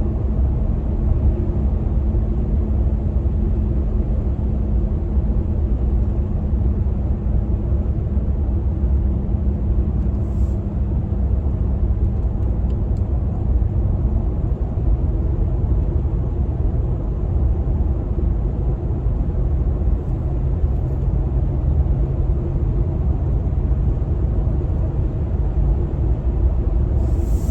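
Steady low rumble of a truck running, with a faint steady hum that stops about halfway through.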